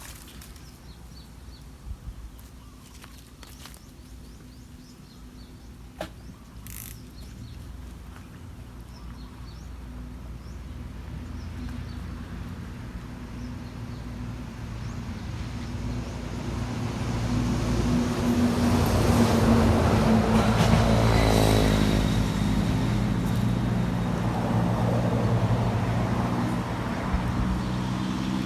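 A motor vehicle's engine approaching and growing steadily louder over about ten seconds, passing close by with a falling pitch about two-thirds of the way in, then running on nearby. A few light clicks come near the start.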